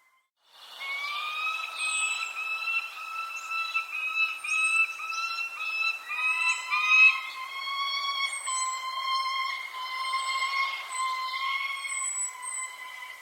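Short high bird chirps, roughly one a second, over a louder steady, slightly wavering whistle-like tone with overtones that steps a little lower about six seconds in. The sound starts after about half a second of near silence.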